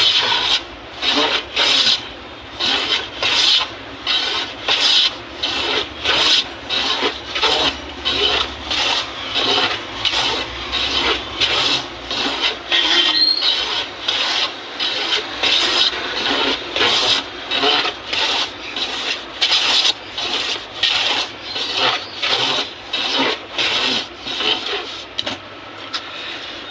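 Steady, repeated strokes of an edged hand tool scraping across teak wood to level its surface, about one and a half strokes a second.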